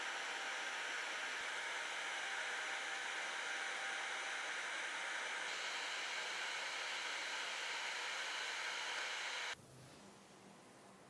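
Steady hiss of a hot-air blower running, which cuts off abruptly near the end.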